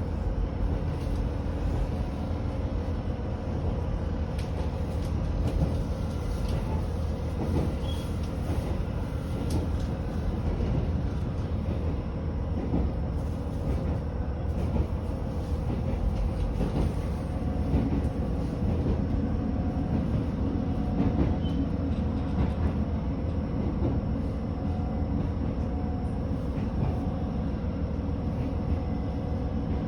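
Inside a JR Hokkaido H100 diesel-electric railcar running along the line: a steady low drone of engine and wheels on rail, with scattered faint clicks from the track.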